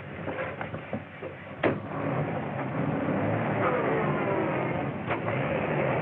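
Car engine running and pulling away, growing louder from about two seconds in, after a single sharp knock.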